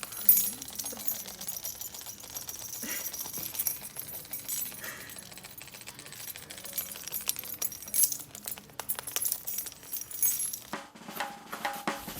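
Irregular light clicks and taps of small hard objects; drumming music starts near the end.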